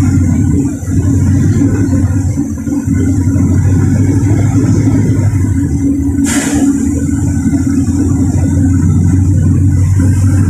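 A LiAZ 4292 city bus's engine runs steadily, heard from on board. About six seconds in there is a short, sharp hiss of compressed air.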